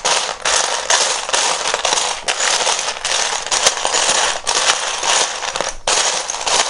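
Loose plastic Lego bricks clattering without a break as a hand rummages through a pile of pieces, with a short pause near the end.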